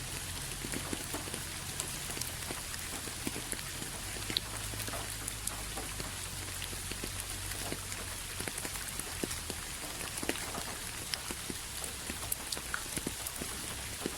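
Steady rain falling, a constant hiss with many separate drops ticking close by on a surface.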